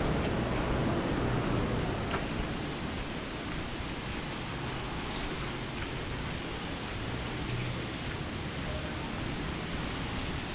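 Steady rushing water of a nearby waterfall, a little louder in the first two seconds.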